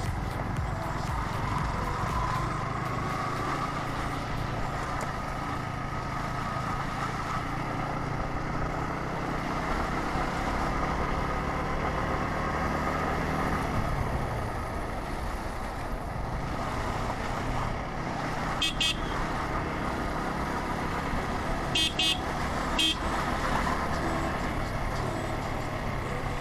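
Motorcycle riding along a road: steady engine running under wind and road noise, with three short vehicle horn toots in the second half.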